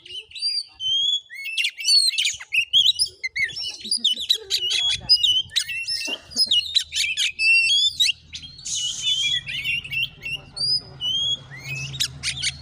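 Oriental magpie-robin singing a fast, varied song of whistled notes, slurs and chatters, with a short harsh hiss about nine seconds in. A low steady hum sits underneath from about five seconds in.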